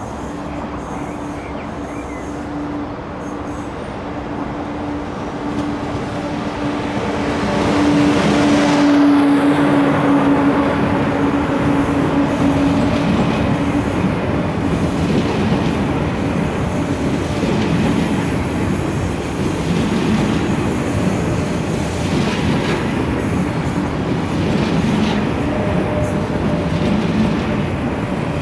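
A train running along the track, growing louder about eight seconds in and staying loud, with a steady hum through the first half and rumbling wheel-on-rail noise.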